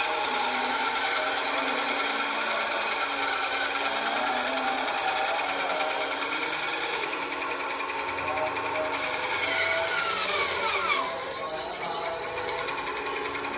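Ryu RBS 8 electric bandsaw running and cutting wood, a steady rasping saw noise over the motor hum. The sound eases slightly about seven seconds in, and a short falling whine comes near the end.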